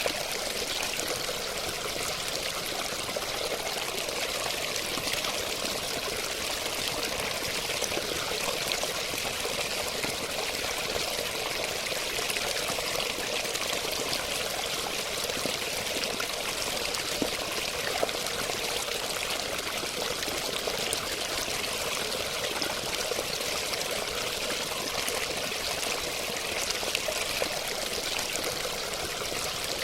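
Running water, a steady splashing stream or small cascade, with a constant rush and small splashes throughout.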